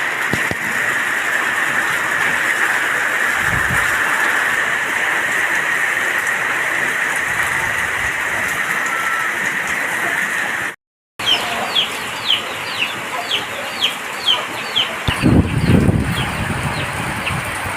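Heavy rain falling steadily. After a cut, the rain goes on under a quick run of short, falling, high-pitched bird calls, about two a second, with a brief low rumble near the end.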